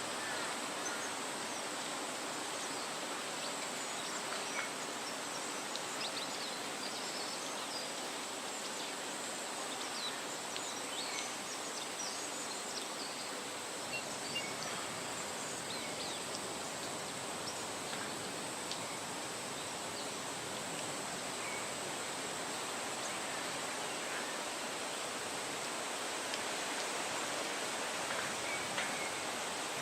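Wind rustling steadily through leafy trees, with faint, short bird chirps scattered throughout and a constant thin high-pitched tone underneath.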